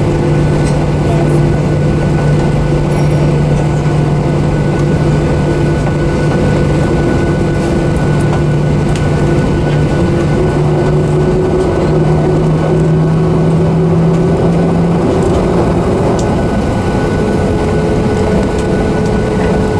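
Boeing 737-800 cabin noise on the ground after landing: a steady rumble of idling engines and air flow, with a low hum that steps up in pitch about twelve seconds in, fades out a few seconds later, and a new hum comes in near the end.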